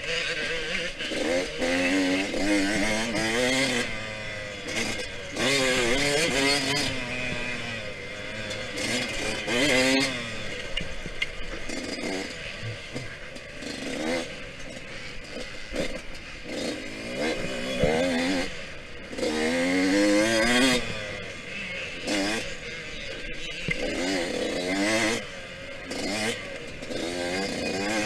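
Yamaha YZ125X 125 cc two-stroke single-cylinder dirt bike engine, ridden hard with the throttle opened and closed again and again. The engine pitch climbs and drops every second or two through gear changes.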